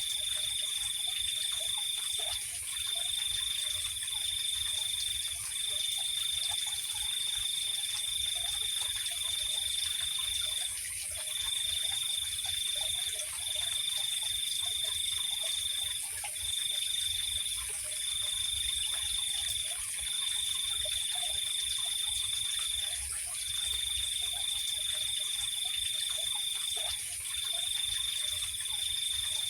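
Night chorus of crickets. One trills at a single high pitch in long stretches, with short breaks every few seconds, over a steady, higher-pitched insect hum. Faint scattered lower calls lie underneath.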